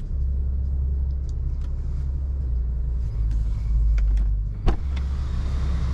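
Low, steady rumble of the Infiniti Q50's 3.0-litre twin-turbo V6 idling, with one sharp click about four and a half seconds in.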